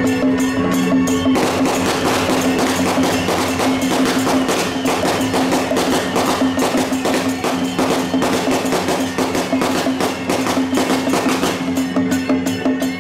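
Music with steady held low tones and dense, rapid percussion clatter. The clatter sets in about a second in and thins out near the end.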